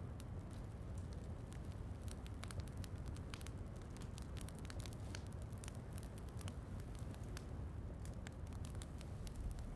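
Wood fire crackling, with frequent irregular sharp pops over a steady low rumble, mixed with soft rain.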